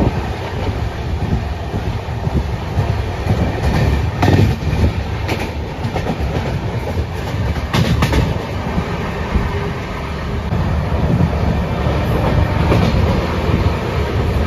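Passenger train running along the track, heard from inside a coach: a steady low rumble of wheels on rail, with a few sharp clicks as the wheels cross rail joints.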